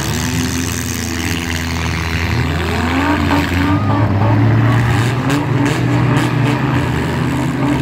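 Several demolition derby cars' engines running at once and revving, with a few sharp knocks about midway.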